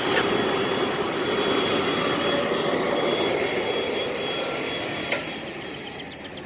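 Chevy truck's 4.3 V6 engine idling. A sharp click just after the start and another about five seconds in bracket a steady rushing noise, which drops away after the second click.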